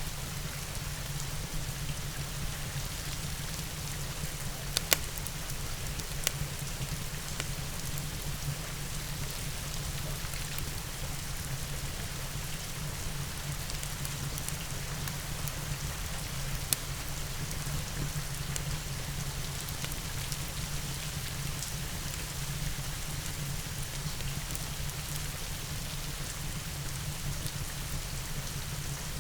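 Steady rain mixed with a crackling fireplace, a low rumble beneath the rain's hiss. A few sharp pops stand out: two about five and six seconds in, and one more a little before the middle.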